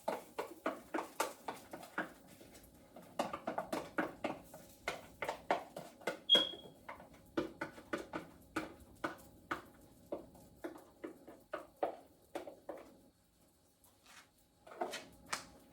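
A spoon knocking and scraping against cookware as cornbread batter is worked into a skillet, in quick, uneven taps about two to three a second that thin out near the end. There is one short, high beep about six seconds in.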